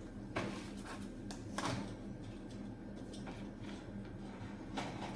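Quiet room tone with a steady low hum and a few short, sharp clicks.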